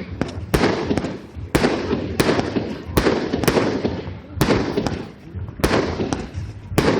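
Alien Fireworks' Path to Destruction, a 500-gram fireworks cake, firing shot after shot: about eleven sharp booming breaks, half a second to a second apart, each trailing off in a short rush of noise.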